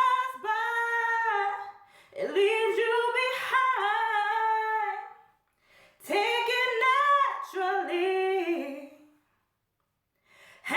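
A woman singing a cappella: three long sung phrases with notes that bend and slide in pitch, a brief silence, then singing starts again near the end.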